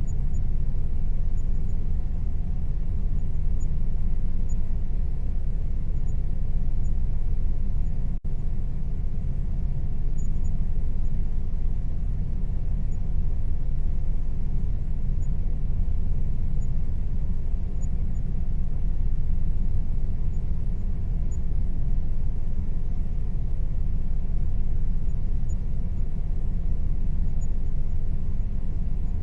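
Air conditioner running steadily: a constant low rumbling hum with a faint steady tone above it, broken only by a split-second dip about eight seconds in.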